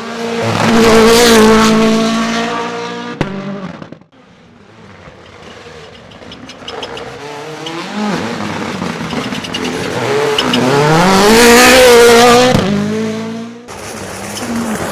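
World Rally Championship Rally1 cars, each with a 1.6-litre turbocharged four-cylinder, driven flat out past the microphone. The engine note swells to a loud pass about a second in, with a sharp crack near three seconds. After a cut, another car's engine climbs steadily in pitch and loudness as it accelerates in, peaks, and cuts off near the end.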